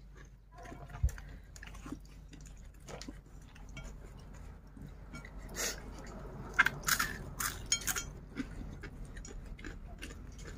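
A man eating rice and fried chicken with his fingers: chewing and crunching, with a cluster of sharp crunches past the middle. A single knock about a second in.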